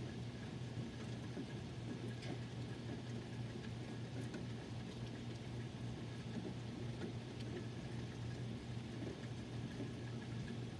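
Steady rain falling on trees and a yard during a thunderstorm, with scattered faint drip ticks over a low steady hum.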